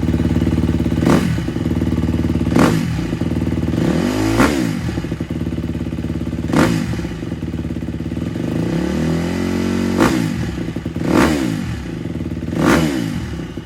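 KTM 250 SX-F single-cylinder four-stroke motocross engine with an FMF titanium full exhaust, idling and blipped about seven times, the revs shooting up and falling back each time. The silencer has a hole that blows exhaust out the side, which affects the sound.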